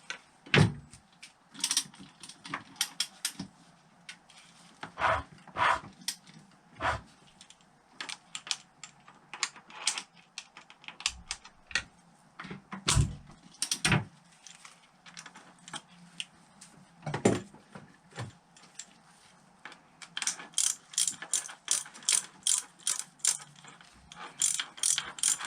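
Ratchet wrench clicking as bolts are worked on a motorcycle engine, with scattered knocks of tools and metal parts. From about twenty seconds in comes an even run of ratchet clicks, about three a second.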